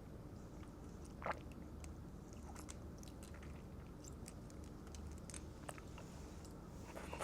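Close-up chewing of sushi rolls, with soft mouth clicks and small crunches, and a louder click about a second in.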